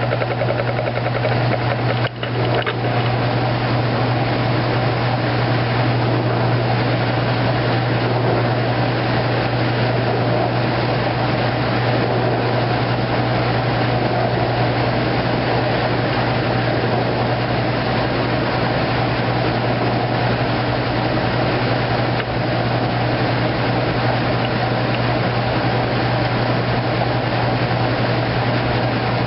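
2008 Kenmore top-loading washing machine running its heavy duty cycle: a steady motor hum with a constant wash noise, dipping briefly about two seconds in.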